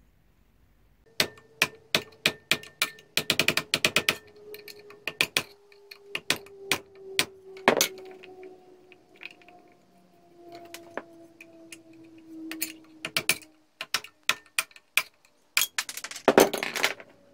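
Metal parts of a hand-crank grinder clinking and knocking as they are handled, with quick clusters of clicks and faint ringing metal tones that slowly drop in pitch.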